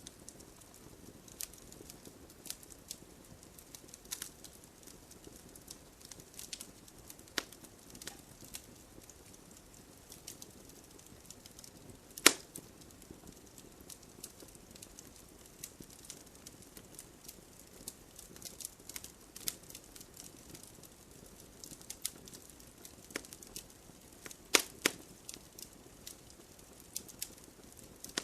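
Wood campfire burning with a low steady hiss and irregular crackles and pops, the sharpest pop about 12 seconds in and two more about 24 seconds in.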